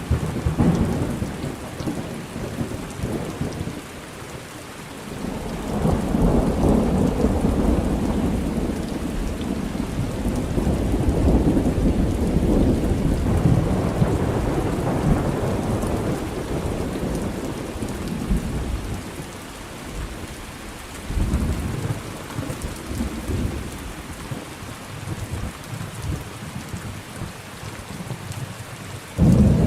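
Thunderstorm: steady rain with rolling thunder. A long low rumble builds about five seconds in and rolls on for roughly ten seconds, a shorter rumble follows later, and a sudden loud crack of thunder comes near the end.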